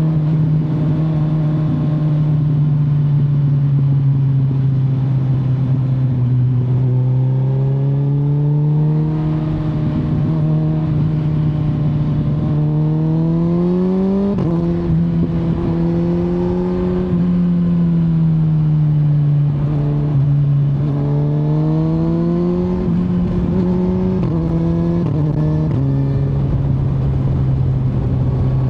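Kawasaki Z900's 948 cc inline-four engine heard from the rider's seat, running steadily for several seconds, then revving up and easing off several times as the bike accelerates and slows. The pitch drops suddenly at the gear changes, once about halfway through and three times in quick succession near the end.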